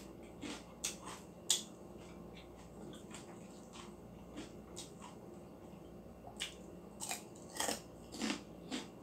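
Close-up mouth sounds of someone biting and chewing crispy pork chicharon (deep-fried pork rind): sharp crunches in clusters near the start and again in the last few seconds, with quieter chewing between.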